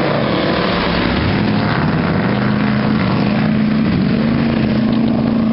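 Motorboat engine running with a steady drone, under a broad rushing noise.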